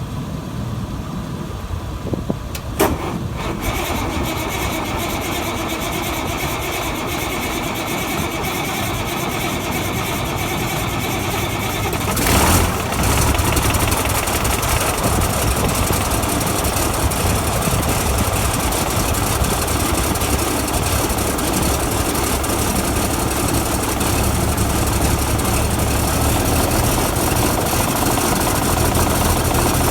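Cummins 855 inline-six diesel in a Versatile 875 tractor running just after a cold start without ether. About twelve seconds in there is a sudden loud burst, after which it runs louder and steadily.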